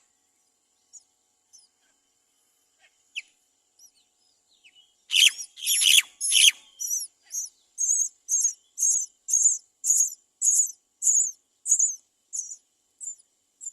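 Great myna nestlings' high, shrill begging calls, the cries of hungry chicks calling for food. A few faint chirps, then about five seconds in a loud burst of overlapping calls, followed by a steady series of calls about two a second that grows a little fainter near the end.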